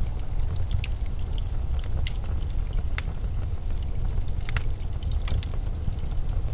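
Blizzard wind ambience: a low, steady wind noise, with irregular short crackles and ticks scattered throughout.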